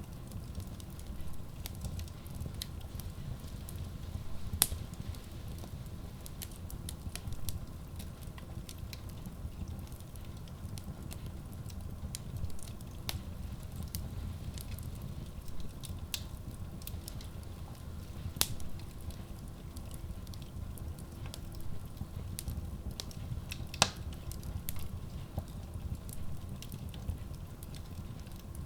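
Logs burning in a Kratki Koza K6 stove-fireplace: irregular sharp crackles and pops over a steady low rumble of the flames. Two pops stand out as louder, one about five seconds in and one about five seconds before the end.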